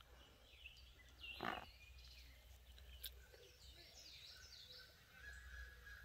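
Near silence with faint bird calls, including a quick run of short falling chirps in the middle, and a brief soft noise about one and a half seconds in.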